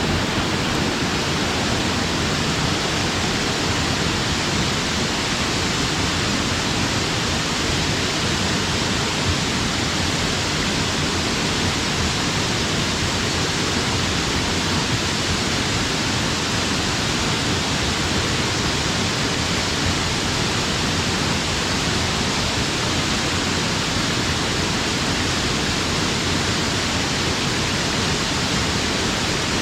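Waterfall pouring in a steady, loud rush of falling water, unchanging throughout.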